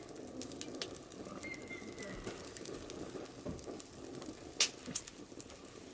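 Firewood burning in a mangal, crackling with scattered sharp pops over a steady low hiss, and one louder pop about three quarters of the way through.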